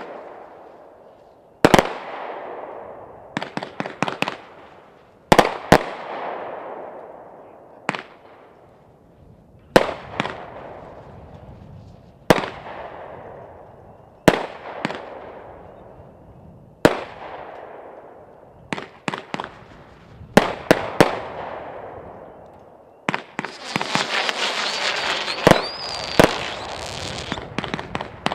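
Aerial fireworks going off: sharp bangs about every two seconds, some in quick clusters of three or four, each trailing off into a fading crackle. About 23 seconds in, a denser stretch of continuous crackling lasts a few seconds.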